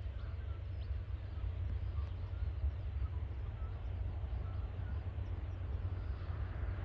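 Low steady rumble of a distant diesel freight train approaching, with small birds chirping briefly now and then.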